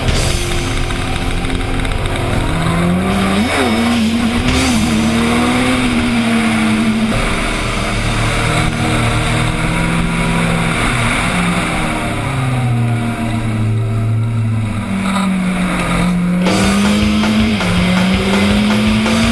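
Kawasaki Z1000's inline-four engine running through an Akrapovic aftermarket exhaust while riding, its pitch rising and falling repeatedly with the throttle.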